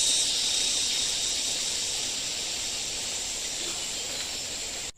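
Steady high-pitched insect chorus, such as cicadas or crickets, buzzing without a break and gradually getting quieter.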